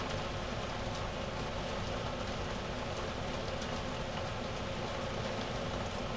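Heavy rain beating down on a window pane: a steady, even rush of rain with no breaks.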